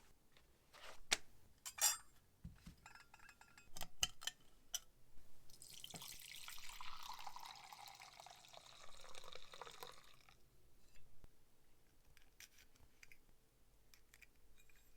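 Small clinks and taps of metal parts against glass, then liquid pouring or running into a glass container for about five seconds, its pitch sliding lower as it goes, followed by a few faint clicks.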